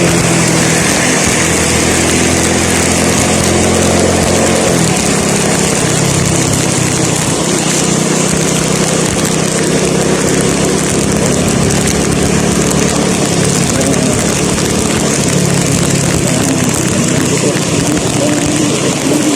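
Petrol vehicle engine running steadily while driving, its pitch shifting about five seconds in, under a constant hiss of wind and road noise.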